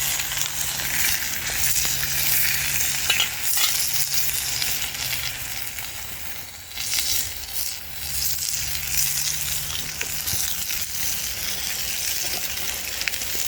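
Steak and potatoes sizzling steadily in a frying pan over a campfire, with scattered sharp clicks and crackles. The potatoes are cooked and are being moved around the pan to stop them sticking.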